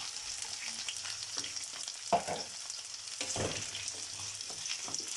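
Chopped garlic, onion and bell peppers sizzling in olive oil in a paella pan as they are sautéed and stirred, a steady high hiss with two short utensil knocks, about two and three and a half seconds in.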